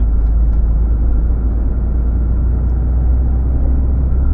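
Steady low rumble of an HGV lorry's engine and road noise, heard from inside the cab while driving.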